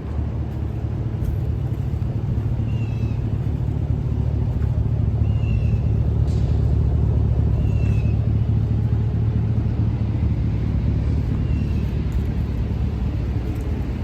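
A Chevrolet Silverado 1500 pickup's engine idling steadily with a low rumble. A short, high, falling chirp repeats about every two and a half seconds over it.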